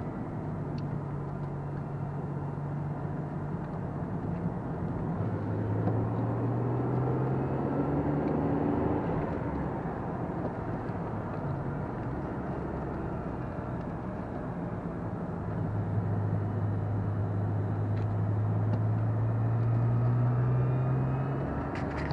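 Lotus Carlton's twin-turbo 3.6-litre straight-six pulling under load, its note climbing slowly in two long stretches as the car accelerates. Steady road and tyre noise runs underneath.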